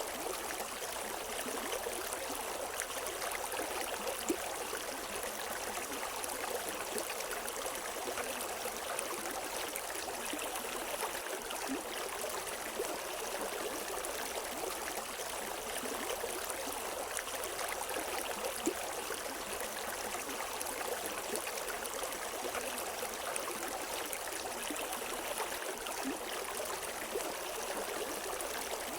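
River water running and splashing over rocks: a steady rush with small splashes and gurgles.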